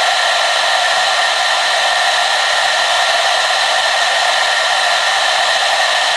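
Hair dryer running steadily on one setting: an even blowing rush with a high motor whine on top, unchanging throughout.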